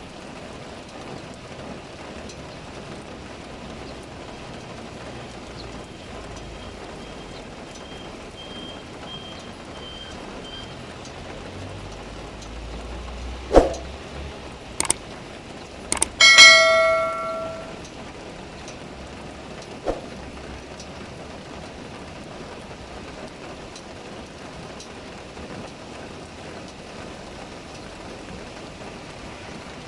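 Heavy rain falling steadily. About halfway through come a few sharp knocks, then a metallic clang that rings for a second or so.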